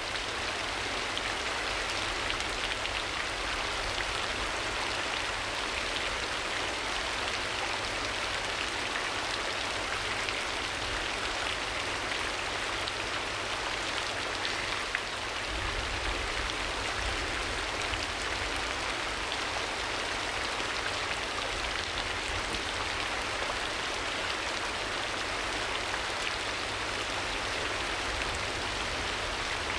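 Steady rain: an even hiss of rainfall with a low rumble underneath that grows a little stronger about halfway through.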